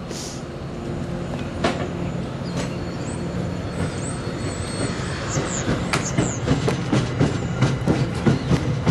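A train approaching and growing louder, with a steady low running hum. Its wheels click over the rail joints, faster and louder toward the end, and a few short high squeals come from the wheels about midway.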